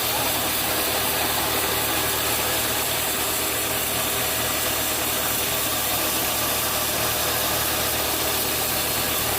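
Sawmill machinery running with a steady, unbroken engine drone and hiss.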